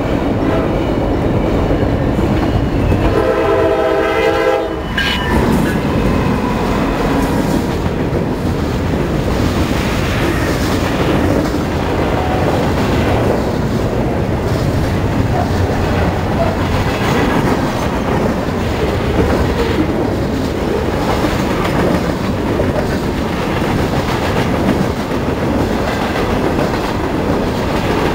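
A freight locomotive's air horn sounds one chord for about two seconds a few seconds in. Then a long freight train rolls past close by, its cars rumbling and their wheels clicking over the rail joints in a steady clatter.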